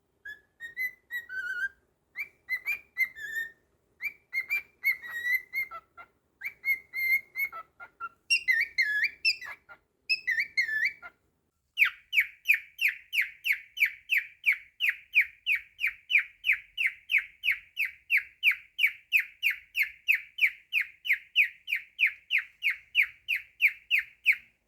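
Cockatiel whistling: several short, varied whistled phrases with brief pauses. About halfway through, it switches to a long run of rapid, identical repeated notes, about three to four a second.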